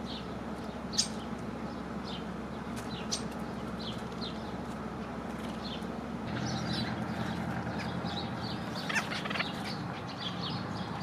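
Small birds at a feeder chirping and calling: many short, high chirps over a steady background hum, with a sharp click about a second in and a louder, harsher call about nine seconds in.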